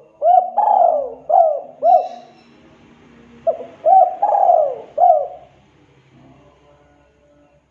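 Spotted dove (tekukur) cooing: two phrases of several arched coo notes, the second starting about three and a half seconds in, then a fade to near quiet near the end.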